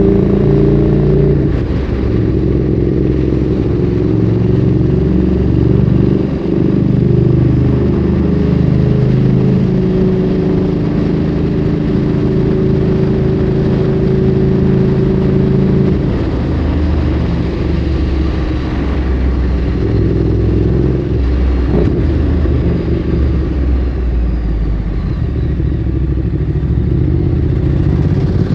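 Ducati Streetfighter 848's L-twin engine through a Termignoni exhaust, ridden on the road, its pitch stepping up and down with throttle and gear changes. From about halfway through it runs at a lower, steadier note.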